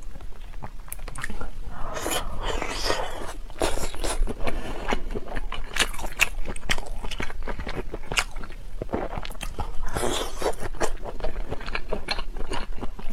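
Close-miked biting and chewing of pork intestine rings: many sharp wet mouth clicks and short crunching smacks, one after another.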